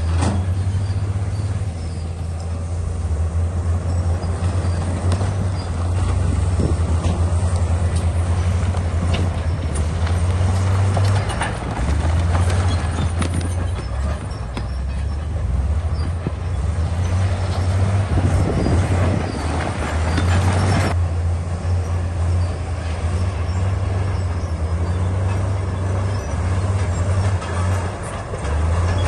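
Crawler bulldozer's diesel engine running steadily under load, a deep low drone, with scattered clanks and a grinding rush of rock being pushed. The rush builds about two-thirds of the way through and cuts off suddenly.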